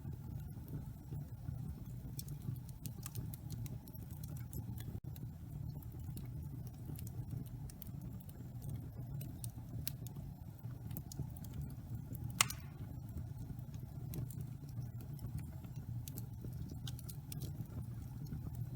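Wood fire burning in a fireplace: a steady low rumble of flames with scattered crackles and snaps, and one loud pop about two-thirds of the way through.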